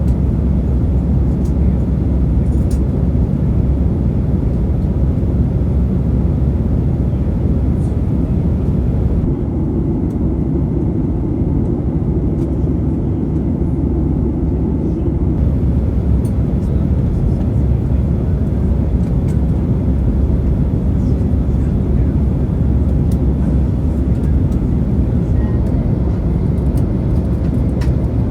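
Steady low roar inside the passenger cabin of a Boeing 737-800 airliner, its engines running continuously.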